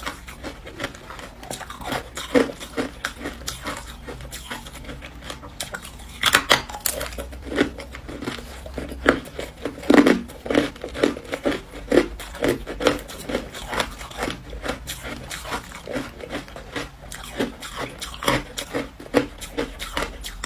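A person biting and chewing ice close to the microphone: a fast, irregular run of sharp crunches, with louder bites about six seconds in and again about ten seconds in.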